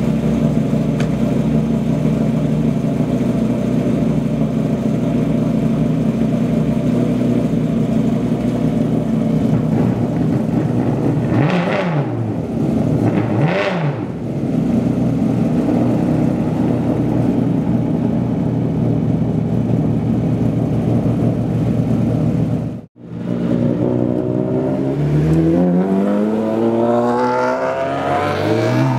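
Straight-piped Ferrari V12 engines of an F50 and an Enzo idling together, with two quick revs of the throttle about halfway through. After a brief break, one car accelerates away, its pitch climbing, dropping at a gear change and climbing again.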